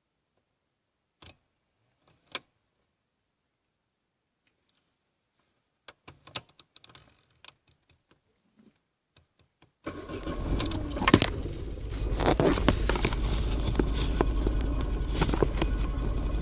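Car keys jingle and click, then about ten seconds in the 1.2-litre car engine comes in suddenly and loud, a steady low rumble with sharp clicks and clatter over it, as in a hard start.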